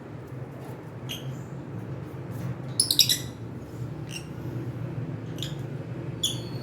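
Pet cockatiels chirping: short high calls about once a second, with a quick loud burst of several chirps about three seconds in. A steady low hum runs underneath.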